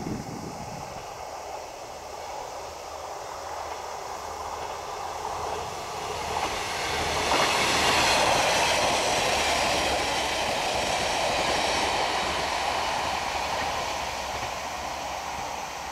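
A train running past on the rails. It draws near over the first several seconds, is loudest from about halfway through, then slowly fades as it moves away.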